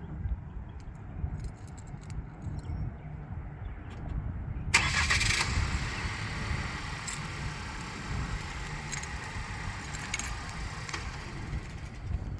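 Key fob handling, then about five seconds in the 2024 Chevrolet Trax's 1.2-litre turbo three-cylinder is remote-started. It catches with a brief loud flare and settles into a steady idle.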